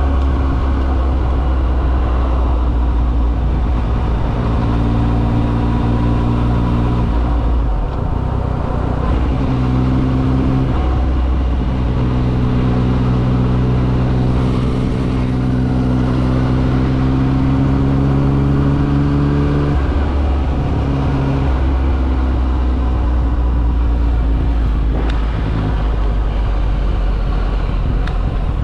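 Yamaha XSR900's three-cylinder engine pulling along on the road, with wind rushing past. The engine note steps up and down with gear changes and climbs steadily for several seconds in the middle.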